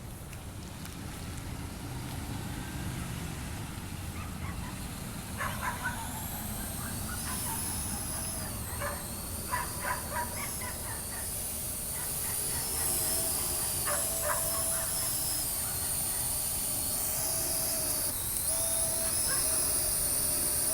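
Parrot AR.Drone 2.0 quadcopter's four electric motors and propellers whining in flight, the high pitch gliding up and down and growing louder from about six seconds in. Short chirps sound in the middle.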